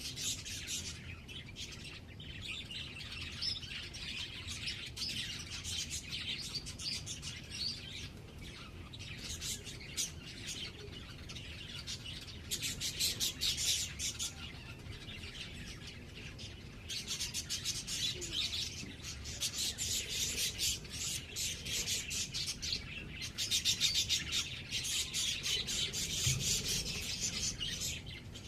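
Small birds chirping in fast, high-pitched trains of chirps that keep up throughout and swell into louder bursts lasting a few seconds each.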